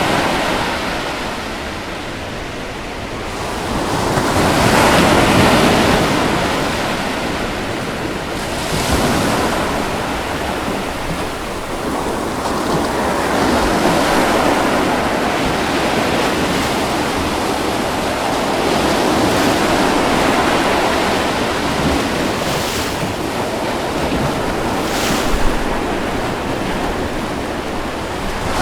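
Ocean surf: waves breaking and washing in continuously, swelling and easing every four to six seconds, with a brief sharper splash near the end.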